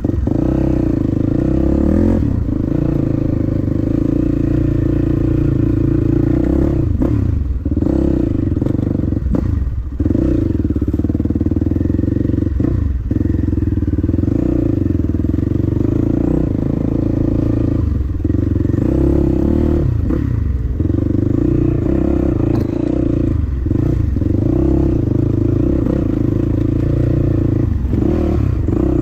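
Dirt bike engine running hard while being ridden, its note dropping briefly every few seconds as the throttle is rolled off and opened again.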